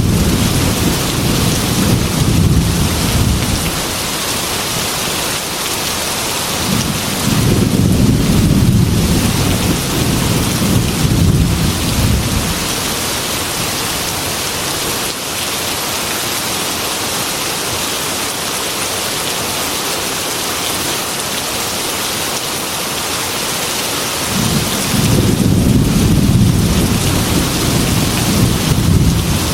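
Heavy rain falling steadily, with low rolls of thunder rumbling three times: at the start, again from about a quarter of the way in, and near the end.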